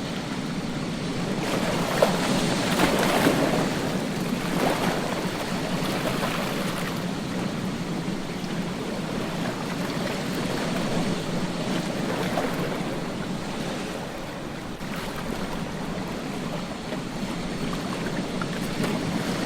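Ocean surf washing on a beach: a wave surges and breaks about two to three seconds in, then a steady rushing wash.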